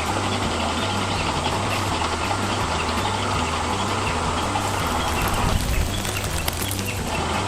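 Whirring of a remote-control construction model's electric motor and gears. It cuts off about five and a half seconds in and starts again near the end, over background music with a steady bass line.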